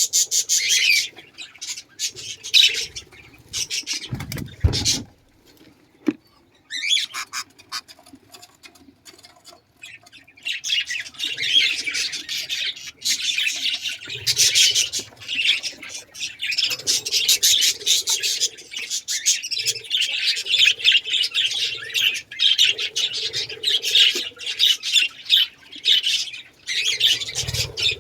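Many small caged birds chattering, chirping and squawking rapidly, in the manner of a breeding room of budgerigars and canaries. Near the start a low thud breaks in, and the chatter drops away for a few seconds before resuming thickly.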